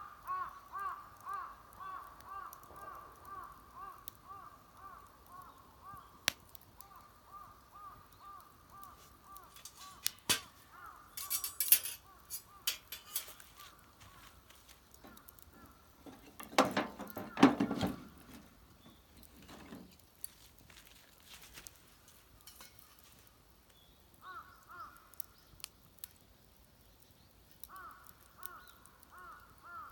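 A bird calling in a fast run of repeated notes, about two or three a second. The run fades out over the first dozen seconds and comes back in two short runs near the end. In between come a few sharp knocks and two clattering bursts.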